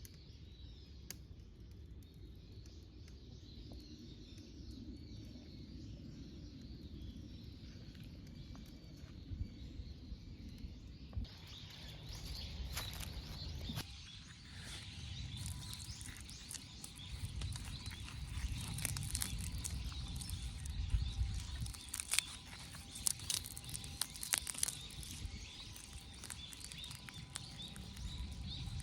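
Outdoor ambience with a steady low rumble of wind on the microphone and birds chirping. From about halfway through, many sharp irregular clicks and crackles come in.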